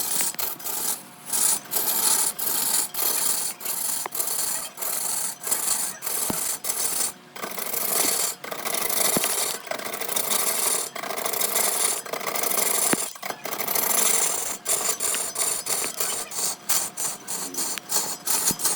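A turning tool or abrasive rasping against wood spinning on a lathe, in repeated uneven strokes with brief breaks between them.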